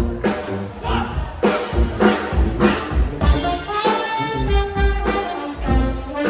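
Brass band playing live: trumpets and trombones holding and moving between notes over a steady drum beat and low bass line, in a jazzy style.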